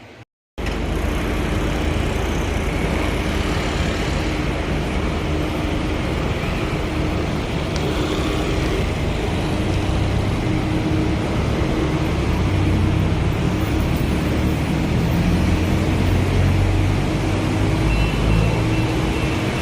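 Loud, steady road traffic noise with engines running. It starts abruptly about half a second in, after a brief moment of silence.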